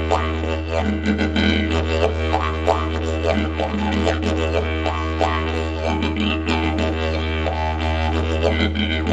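Didgeridoo in the key of E playing a steady low drone, with the tone above it shifting in quick rhythmic pulses as the player reshapes mouth and breath.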